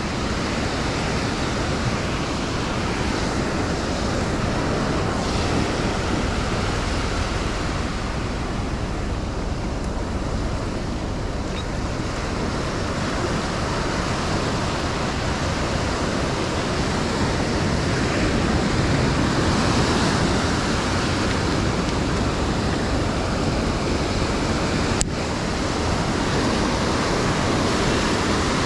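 Ocean surf breaking and washing up a sandy beach, a steady rushing that swells and eases, with wind rumbling on the microphone. A single sharp click sounds near the end.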